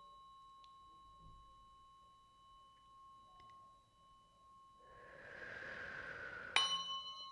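Faint ringing of tuning forks, several steady high tones slowly dying away. About a second and a half before the end a fork is struck sharply and a fresh ring starts, just after a rising hiss.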